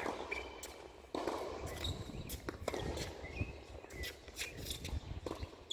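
Footsteps on a tennis court with scattered knocks and a few short, high shoe squeaks, over a steady low rumble.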